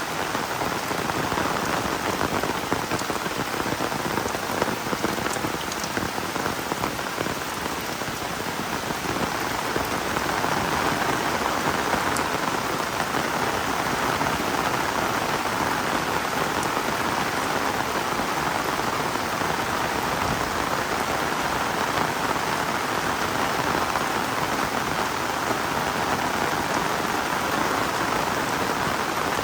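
Heavy rain falling steadily in a dense, even hiss, a little louder from about ten seconds in.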